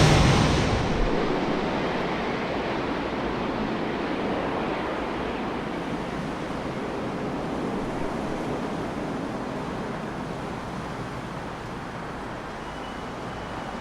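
Jet airliner engine noise dying away just after the aircraft has passed: a broad, even rush that fades steadily over the whole stretch, its higher part dropping out first.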